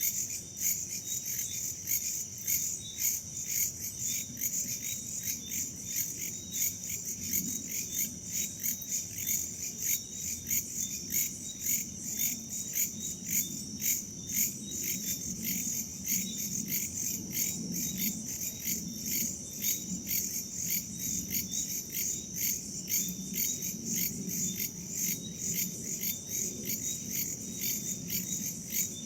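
A chorus of crickets and other insects chirping in a fast, even pulse that never lets up, with a faint low rumble of wind beneath.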